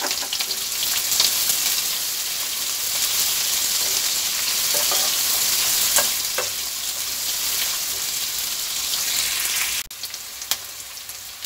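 Sliced onions, garlic and ginger sizzling in hot oil in a nonstick kadhai while a wooden spatula stirs them, with a few scrapes and knocks of the spatula. The sizzle drops suddenly to a quieter level near the end.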